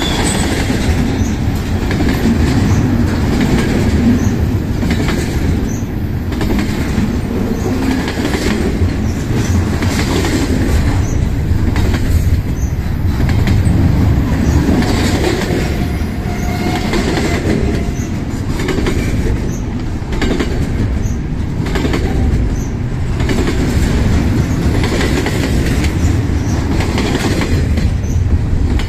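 Ferromex freight train's cars rolling past close by, steel wheels clattering rhythmically over the rail joints, with a faint wheel squeal now and then.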